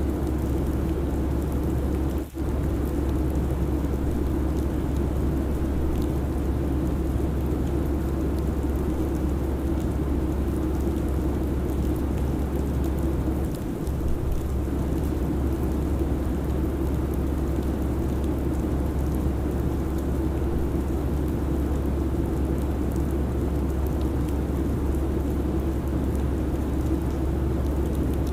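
Steady airliner cabin noise: a constant low rumble and hum of engines and airflow, broken by a brief dropout about two seconds in.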